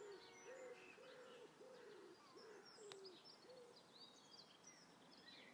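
Birds calling faintly: one bird gives a run of about seven low, arched notes over the first four seconds, while smaller birds chirp higher up.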